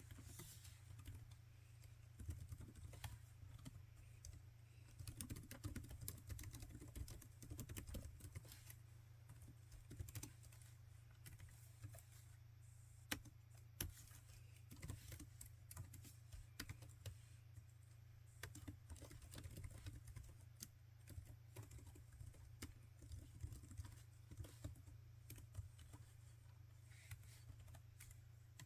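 Typing on a laptop keyboard: a continuous run of soft key clicks, with a few louder single key strikes about halfway through, over a faint steady low hum.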